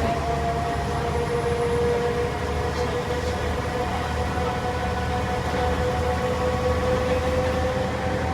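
Diesel bus running under way, heard from on board: a steady low rumble with a high whine from the drivetrain that rises slowly in pitch as the bus gathers speed.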